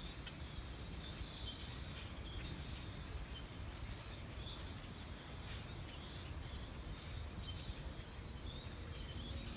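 Faint small birds chirping here and there over a low steady rumble.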